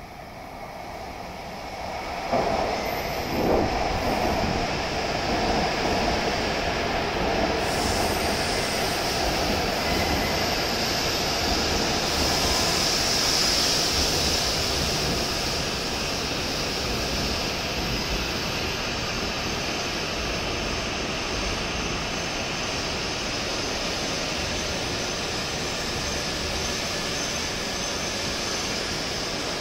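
E7 series shinkansen train pulling into a station platform and slowing. Its sound rises sharply a couple of seconds in, then settles into a steady rush of running noise with a high hiss.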